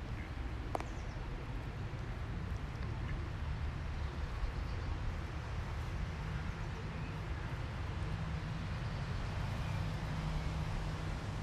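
Steady outdoor ambience: an even wash of low rumbling noise, with a single sharp click about a second in and a faint low hum in the second half.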